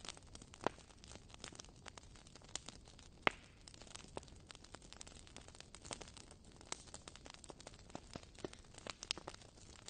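Fire crackling: irregular sharp pops and snaps over a soft hiss, the sharpest pop about three seconds in.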